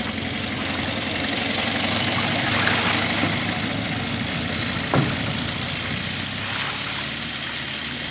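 An engine idling steadily, with a single sharp knock about five seconds in.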